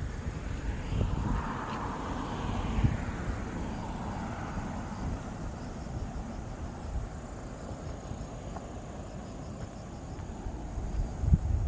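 An aircraft passing overhead, its drone sliding down in pitch and fading over several seconds. Gusty wind rumbles on the microphone, and a steady high insect trill runs underneath.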